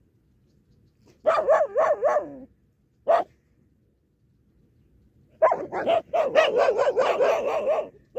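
Dogs barking in quick runs: four barks about a second in, a single bark, then a longer rapid string of barks near the end.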